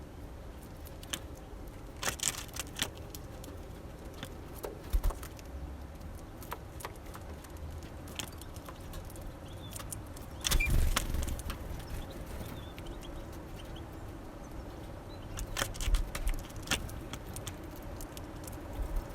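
Small birds at a seed feeder making scattered sharp taps and clicks as they peck and hop about. Low rumbles come and go, loudest about ten seconds in.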